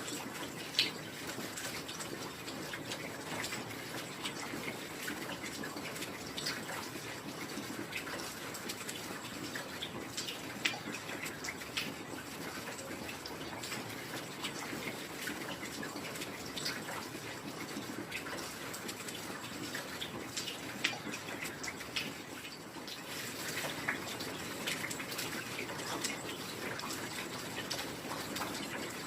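Steady heavy rain, a dense hiss of falling water with individual drops and drips ticking out of it, a few sharper drips standing out here and there.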